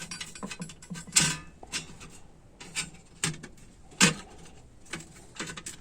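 Metal transmission valve body parts being handled and fitted together: irregular small clicks and light knocks, with sharper knocks about a second in and about four seconds in.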